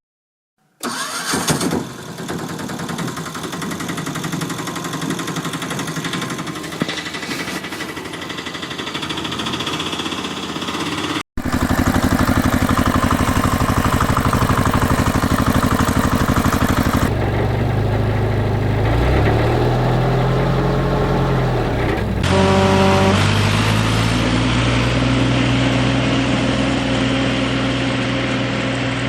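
Truck and JCB engine sound effects edited together: an engine runs, cuts off sharply about eleven seconds in, and a deeper engine carries on. That second engine rises and falls in pitch as it revs, then settles into a steady run.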